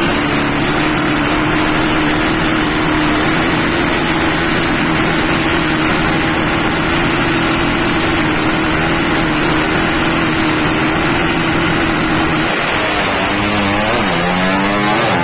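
Drag-race underbone motorcycle engine held at a steady high rev. About thirteen seconds in, its pitch drops and then climbs again in repeated rising sweeps.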